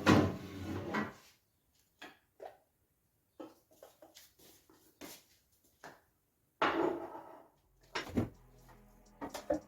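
Plastic fridge compartments being pulled out and handled: scattered knocks and clatters, with a longer, louder rattle about two-thirds of the way through.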